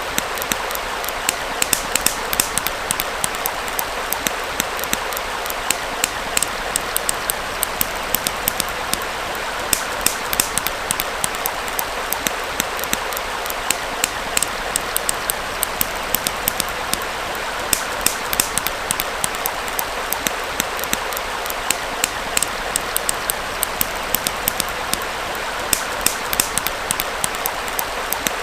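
Campfire crackling with frequent sharp pops over the steady rush of a small stream.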